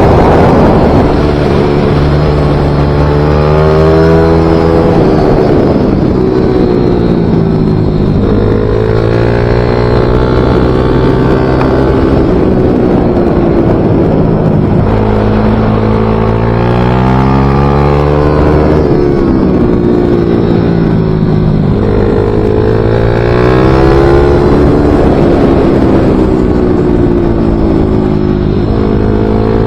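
Small racing motorcycle engine running hard, its pitch climbing steeply as it accelerates and falling back again and again, a rise-and-fall cycle every four to six seconds as the bike laps the circuit.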